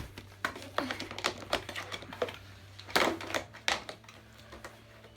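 Irregular clicks and taps of hard plastic toy pieces being handled and fitted together, with one louder knock about three seconds in.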